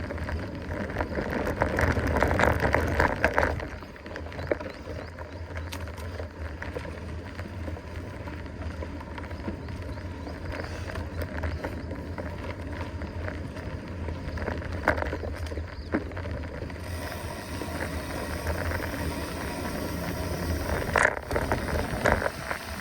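Mountain bike being ridden along a dirt trail: steady rolling and rattling noise from the bike, louder for a couple of seconds near the start, with scattered clicks and knocks.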